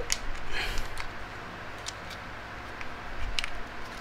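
A few light clicks and a brief rustle of handling as an electric shaver's charger is picked up and plugged in, over a faint steady hum.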